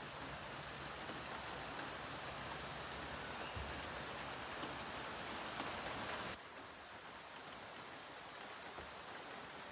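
Light rain falling, with a steady high-pitched cricket chirp running under it. About six seconds in, the rain noise drops off suddenly while the cricket goes on.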